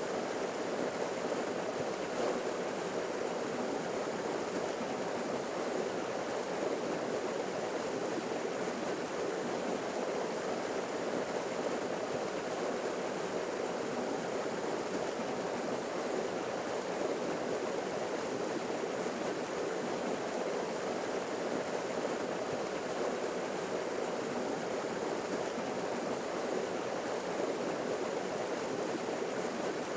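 Small forest waterfall splashing and rushing in a steady, unbroken wash of water noise.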